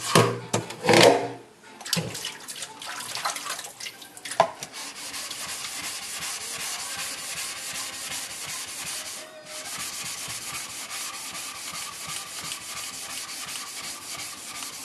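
A Shapton Glass #6000 whetstone being rubbed flat with fast, even back-and-forth strokes, a gritty rubbing that pauses briefly once midway. It begins with a few clattering knocks as the stone is handled and set in place.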